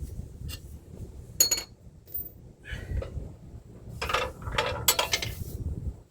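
Metal hand tools being handled while working under a truck, clinking and clattering. A single sharp ringing clink comes about a second and a half in, then a run of clatter around four to five seconds.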